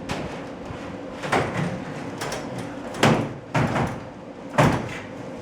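Knocks and clanks of garage door panels and hardware being handled and fitted, several separate strokes with the loudest about three and four and a half seconds in.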